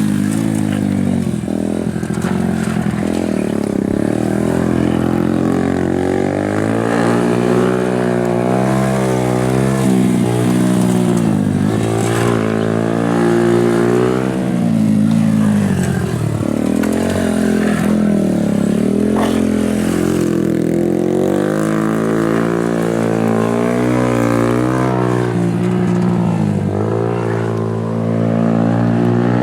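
Honda Super Cub's single-cylinder four-stroke engine running through a RAIJIN aftermarket exhaust under riding, its revs climbing and falling again and again as it accelerates and backs off, with deeper drops about halfway through and shortly before the end.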